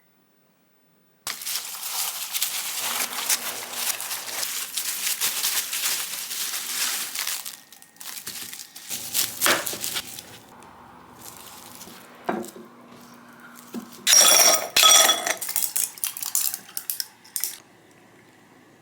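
Kitchen work with dishes and utensils: several seconds of rustling and scraping, then scattered knocks and, past the middle, a couple of bright ringing clinks of dishes.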